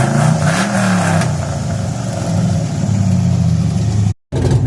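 Car engine revved twice in quick succession, the pitch rising and falling each time, then running unevenly at a lumpy idle. The sound cuts out for a moment near the end.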